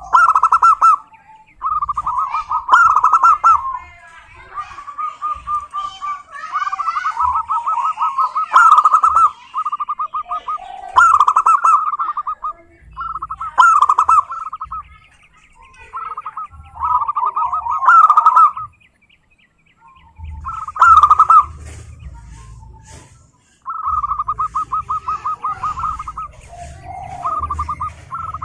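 Zebra doves (perkutut) singing: repeated phrases of fast, rapidly pulsed cooing notes, each one to two seconds long, coming every couple of seconds, with a short pause about two-thirds through.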